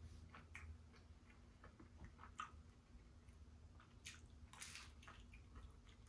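Faint mouth sounds of someone eating cheese pizza: scattered small wet chewing clicks, with a bite into the slice about four and a half seconds in.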